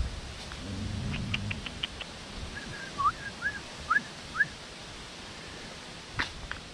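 A bird calling: a quick series of about six short chirps, several rising in pitch, over a couple of seconds. A few light clicks come before it.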